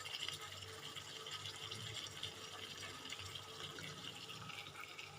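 Faint, steady sizzling and crackling of chicken curry cooking in a pan on a low flame.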